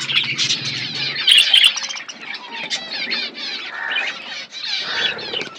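Budgerigars chattering and warbling continuously, with a burst of louder, sharp chirps about a second and a half in.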